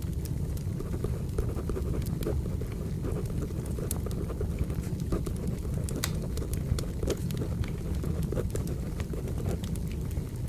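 Crackling wood fire: a steady low rumble with many scattered sharp pops and snaps, mixed with pencil writing on paper.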